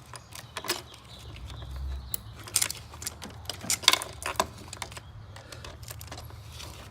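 Irregular metallic clinks and taps of a ratchet and 10 mm socket being worked onto an ignition coil's hold-down bolt, over a faint low steady hum.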